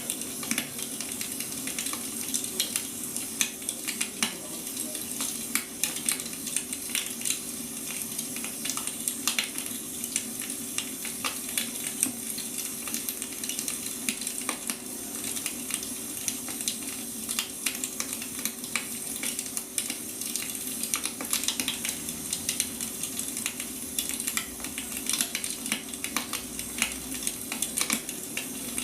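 Firewood logs burning, crackling and popping continually over a steady hiss, with a faint constant hum underneath.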